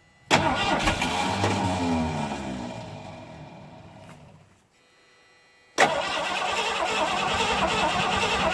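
1979 Ford F-150's 351M V8 being cranked on its starter in a start attempt. The sound sets in suddenly, then fades and drops in pitch over about four seconds until it dies out, and a second start attempt begins abruptly about six seconds in.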